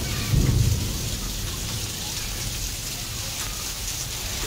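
Heavy rain pouring down in a steady hiss, with a loud low rumble swelling briefly about half a second in.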